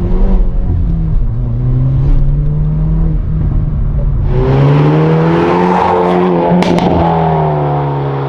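Hyundai Veloster N's turbocharged 2.0-litre four-cylinder engine under hard acceleration, its pitch rising and then dropping several times as it works through gears. A loud rush of noise builds over it from about halfway through.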